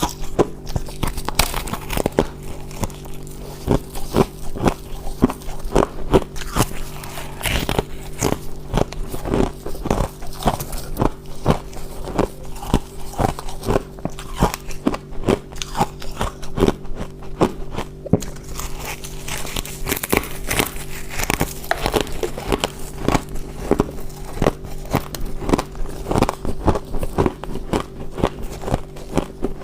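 Deep-freezer ice being bitten and chewed, with continuous irregular crisp crunches, over a steady low hum.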